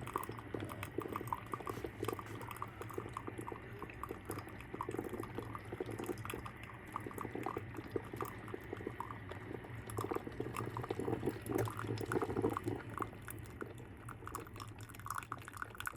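Hamilton Beach coffee maker percolating while it brews: irregular gurgling and sputtering as hot water is pushed through, over a low steady hum.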